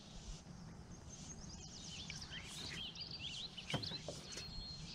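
Small birds chirping and twittering in quick, repeated high notes over a low steady rumble, with a single sharp knock about three and a half seconds in.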